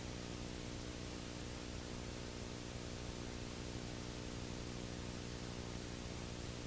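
Steady hiss with a low electrical hum and no other sound: the noise floor of an old recording.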